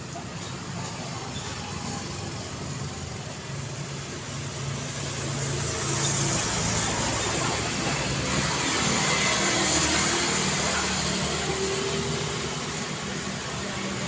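Road traffic: a steady wash of engine and tyre noise from passing cars, swelling louder about halfway through as vehicles come closer, easing off, then building again near the end.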